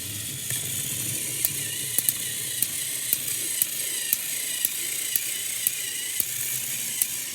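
Battery-powered motorized toy train engines running, a steady whirring of small gear motors with sharp regular clicks about twice a second.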